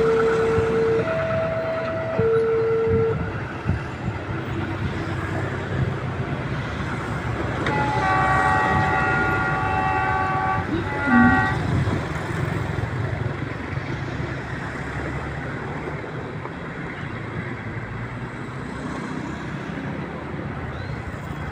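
A train passes with a steady rumble, hauled by a CC 203 diesel locomotive that sounds a multi-note chord horn for about three and a half seconds, beginning about 8 s in. At the start, a two-tone warning signal alternates low and high about once a second and stops about 3 s in.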